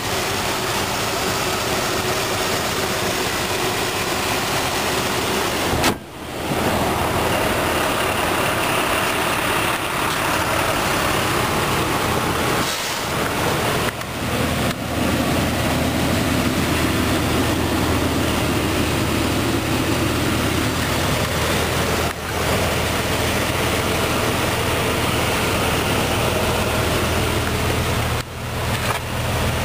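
A 2000 Jeep Grand Cherokee's 4.0-litre PowerTech inline-six idling steadily, with a few momentary dips in the sound.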